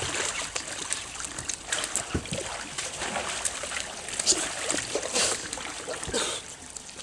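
Water splashing and sloshing irregularly against a kayak as it is rocked in the water.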